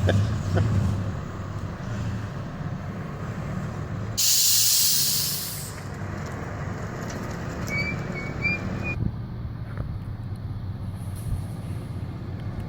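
Engine running steadily, with a loud burst of hiss about four seconds in that lasts about a second and a half.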